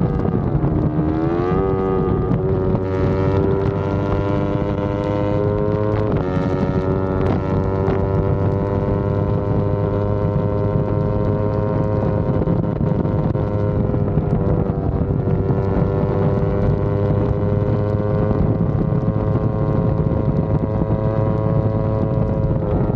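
Yamaha R25's parallel-twin engine pulling on the move at a steady pitch, with a brief dip and climb back in pitch about a second in and another change about six seconds in. Wind rushes over the microphone.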